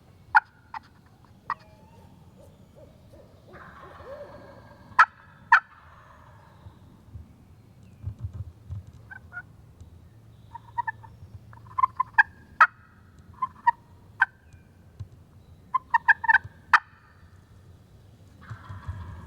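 Wild turkey gobbling, amid groups of short calling notes and several sharp clicks.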